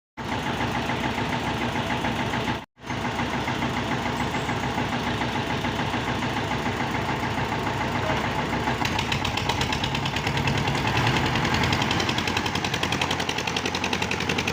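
Diesel tractor engine running with a rapid, even knocking beat. It breaks off briefly just before three seconds, and from about nine seconds in the sound grows brighter and harsher.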